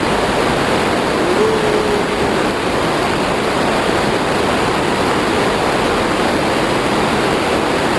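Heavy rain and rushing water: a loud, steady rush of water with no breaks.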